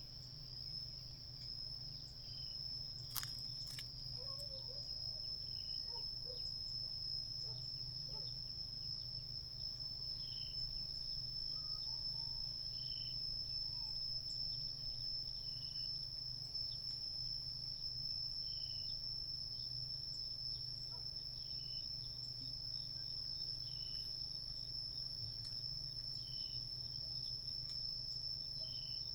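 Insects trilling in one unbroken high-pitched note, typical of crickets, with faint short chirps repeating every second or two.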